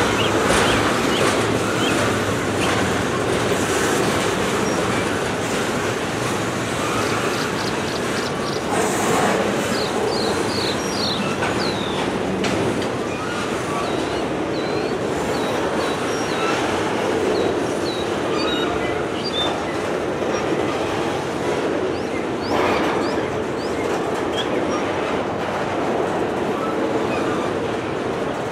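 Double-stack intermodal freight train's well cars rolling past: a steady noise of steel wheels on the rails, with a few short high squeaks about a third of the way through.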